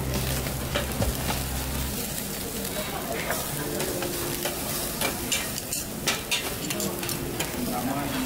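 Beef ribs sizzling on the wire mesh of a charcoal table grill, with frequent light clicks of metal tongs and scissors handling the meat.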